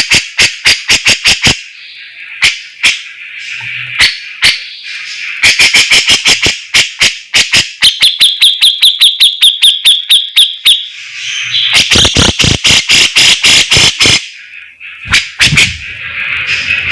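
A songbird singing loudly in fast runs of sharp, clicking notes. A steady, rapid trill of about a dozen high notes comes in the middle, and there are short pauses between the phrases.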